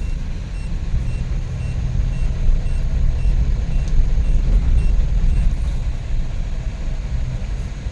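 Suzuki DA64V van's freshly rebuilt K6A three-cylinder engine and road noise, a steady low rumble heard from inside the cabin while driving. A faint high beep repeats about twice a second over it.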